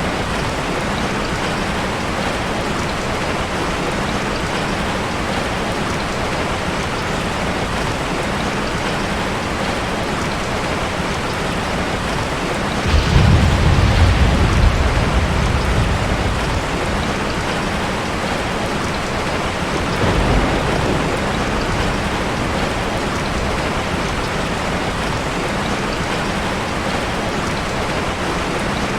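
Steady heavy rain. Thunder rumbles low about 13 seconds in and dies away over a few seconds, with a smaller rumble a few seconds later.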